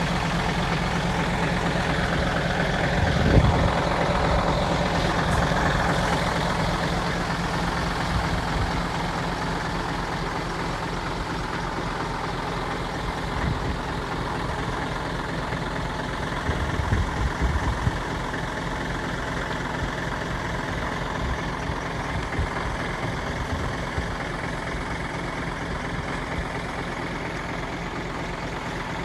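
Heavy-equipment diesel engine running steadily, with a single loud knock about three seconds in and a short patch of clattering around the middle.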